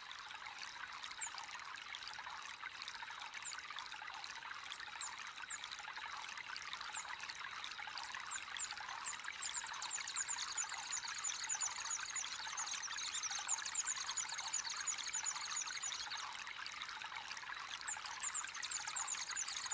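Water trickling and splashing steadily into a fish pond, with small birds chirping over it in quick, high notes that grow busier about halfway through.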